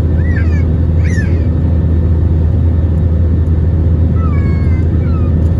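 Steady low roar of an Airbus A321 under way, with a strong hum. Over it come several short high cries that slide up and down in pitch: two near the start and two more about four seconds in.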